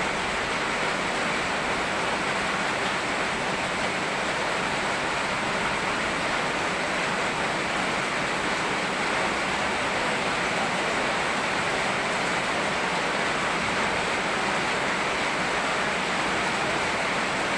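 Steady, even rush of rain and flowing river water, with no single drops or splashes standing out.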